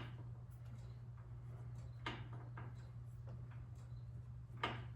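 A few faint clicks and knocks of tools and parts being handled on a snowblower engine, over a steady low hum.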